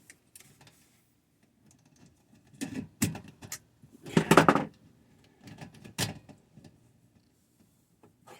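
Intermittent clicks, knocks and rattles of small metal parts and tools being handled while wiring a water pressure switch, with the loudest clatter about four seconds in.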